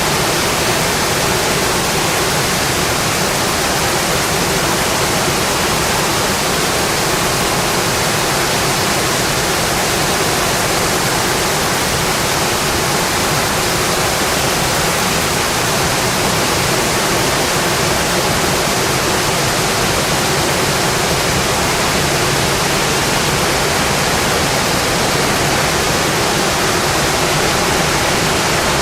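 Rain falling steadily on a metal roof, a dense, even hiss with no breaks.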